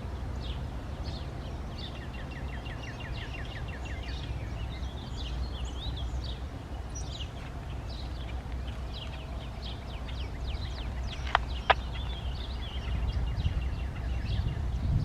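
Songbirds chirping and trilling, including a fast run of repeated rising notes, over a steady low rumble. Two sharp, brief strokes come about eleven seconds in.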